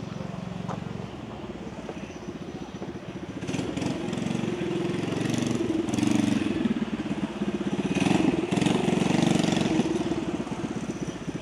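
A vehicle engine running close by with a rapid, even firing beat, growing louder about four seconds in and easing off near the end.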